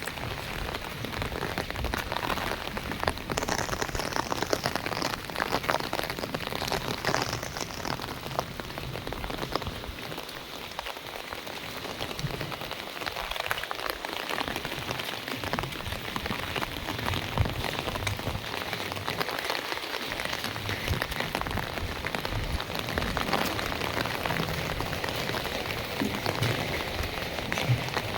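Heavy monsoon rain pouring down steadily, a dense hiss of rainfall with many close individual drop hits.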